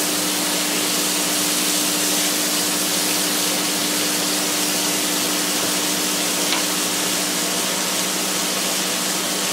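Peeled white pearl onions frying in butter and oil in a skillet on medium-high heat: a steady, even sizzle, with a low steady hum underneath.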